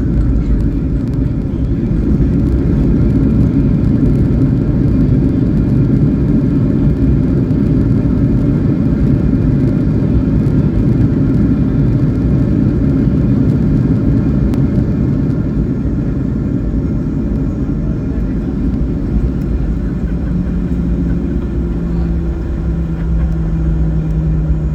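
Aircraft landing: a loud, steady rumble of engine and rolling noise. About twenty seconds in, a low humming tone comes in and steps down in pitch.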